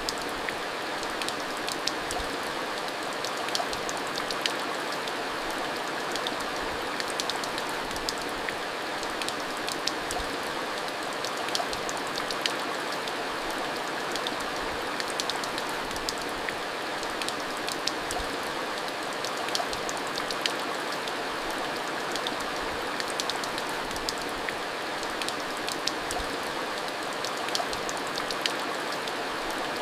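Steady heavy rain: an even hiss with many sharp drop ticks scattered through it.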